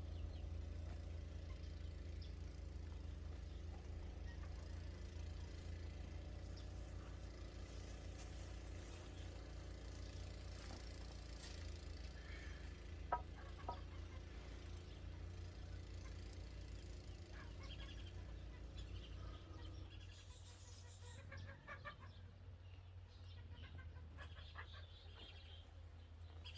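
Faint bird calls, likely chickens clucking, scattered over a steady low rumble, with one sharp click about 13 seconds in.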